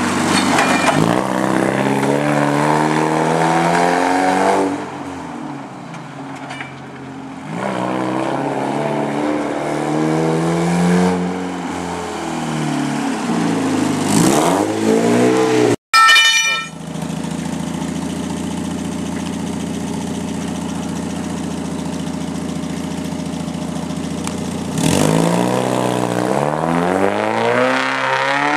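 Ford Escort GT's four-cylinder engine revving up and down again and again as the car accelerates and slows around a paved lot. After a brief break about halfway, the engine runs at a steady pitch, then revs up again near the end.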